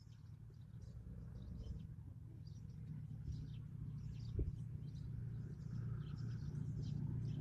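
Small birds chirping in short, repeated calls over a low rumble that grows steadily louder, with a single sharp knock about four seconds in.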